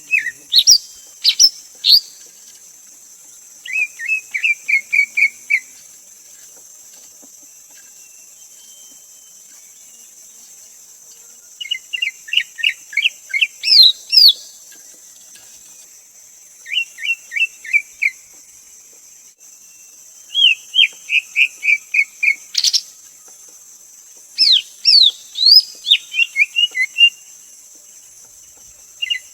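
Greater green leafbird calling: bouts of quick, repeated whistled notes, eight to ten notes in a second or two, some with sharper rising notes above them. The bouts come again every few seconds.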